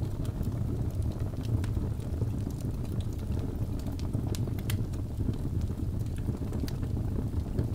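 Wood fire burning in a fireplace: a steady low rumble of flames with scattered crackles and pops, a couple of sharper pops around the middle.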